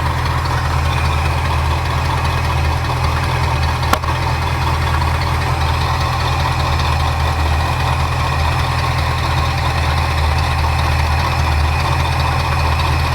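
Ford 351 Windsor V8 idling steadily while the idle mixture screws of its freshly rebuilt carburetor are being adjusted. A single sharp click about four seconds in.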